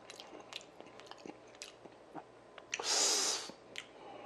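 A person chewing food with small wet mouth clicks, and a short loud hiss about three seconds in.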